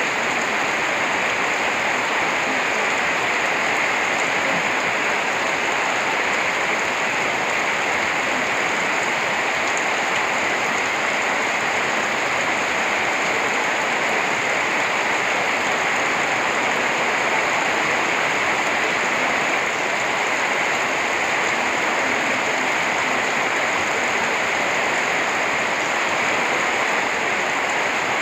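Steady heavy rain falling, an even continuous hiss of rainfall.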